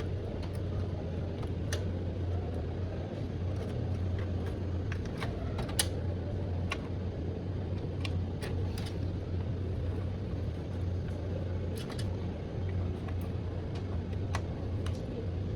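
Scattered light clicks and taps of desktop computer parts and cable connectors being handled and fitted, one sharper click about six seconds in, over a steady low hum.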